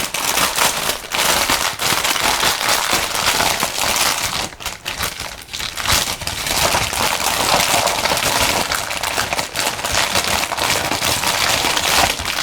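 Plastic packaging crinkling continuously as it is handled and opened, with a short lull a little over four seconds in.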